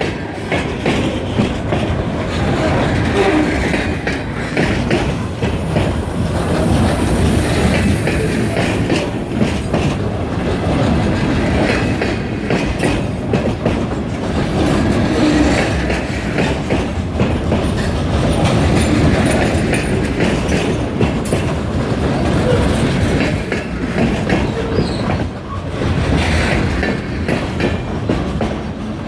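Kiamichi Railroad freight train rolling past steadily, its car wheels clacking over the rail joints.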